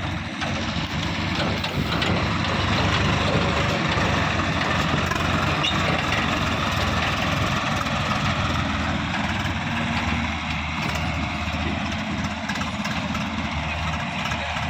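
Heavy diesel machinery engine running steadily with a low, even rumble.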